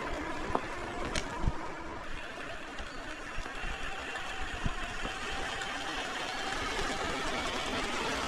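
A vehicle running steadily, with a few short clicks and knocks.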